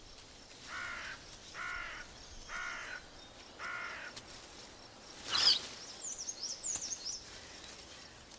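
An animal calls four times, about a second apart, with short harsh cawing calls. A brief loud swish comes about five seconds in, followed by quick high chirps from a small bird.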